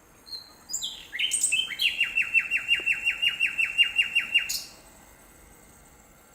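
Nightingale singing one phrase: a few high opening notes, then a fast run of about fourteen repeated down-slurred notes, roughly six a second, which breaks off about four and a half seconds in.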